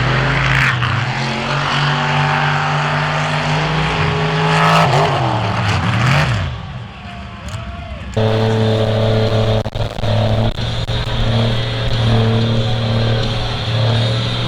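Off-road vehicle engine revving, its pitch climbing and falling repeatedly. About eight seconds in, the sound changes abruptly to an engine held at a steady high speed.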